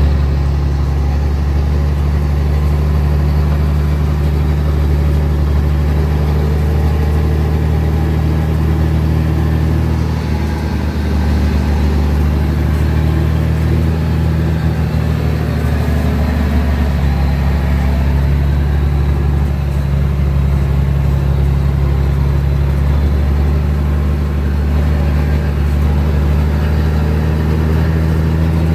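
M35A2 military truck's diesel engine running steadily under way, a deep, even drone that dips briefly about ten seconds in.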